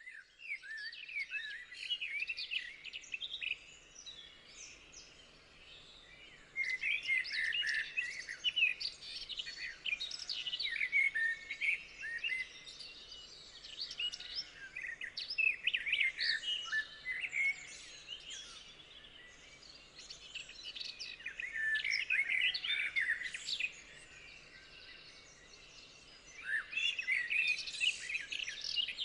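A chorus of small songbirds chirping and trilling in dense, overlapping spells, with quieter stretches between them over a faint steady background hiss.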